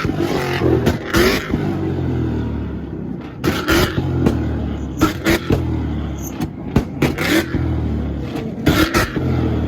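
Ford Mustang engine held on a two-step rev limiter, its exhaust banging and crackling in clusters every second or two as it shoots flames. A steady low engine note runs under the bangs.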